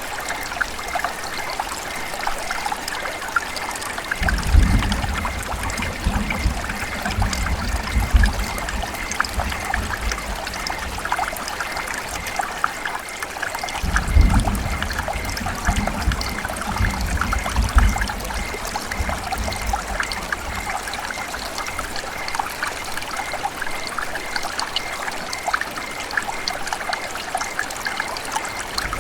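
River water running and trickling steadily, a constant babble with many fine splashes. Twice a low rumble swells under it for several seconds.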